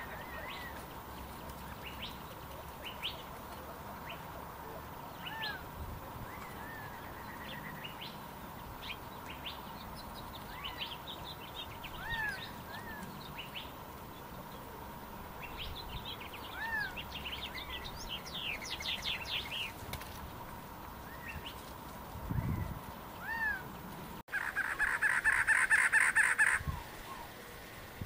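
Several wild birds calling: scattered high chirps and twitters, with one bird repeating a short slurred whistle every few seconds. Near the end, a louder rapid run of harsh, buzzy repeated notes lasts about two seconds.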